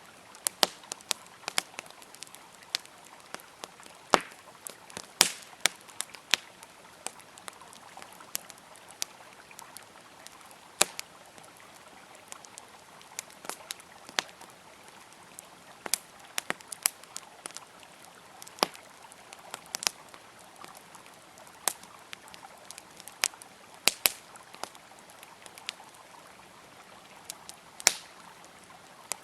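Campfire crackling with frequent sharp, irregular pops, over the steady sound of a flowing river.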